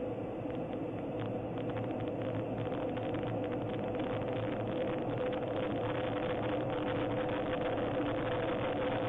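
A-10 Warthog's twin General Electric TF34 turbofan engines droning steadily as heard from the cockpit, a constant whine over a rushing noise, slowly getting louder.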